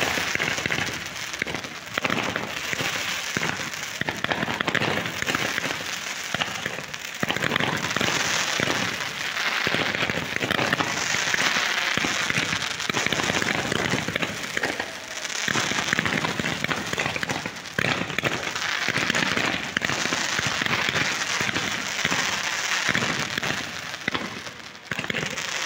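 Fireworks going off in dense, continuous crackling, like heavy rain, packed with many sharp pops. The gold sparking trails seen rising are crackling effects.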